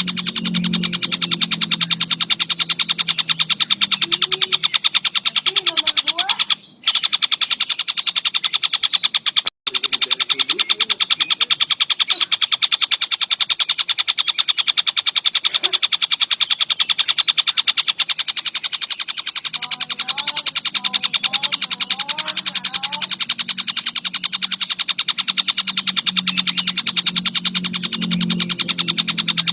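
Kingfisher (tengkek buto) calling in a fast, unbroken chatter of rapid, evenly repeated high notes. The chatter drops out briefly twice, about 7 and 10 seconds in. Fainter chirps of another bird sit underneath.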